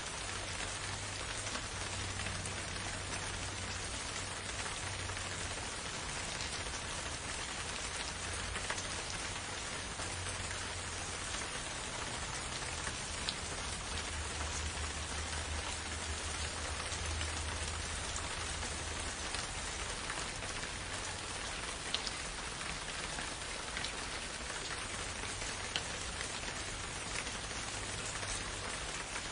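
Steady, even rain falling, with a few sharper drops ticking now and then.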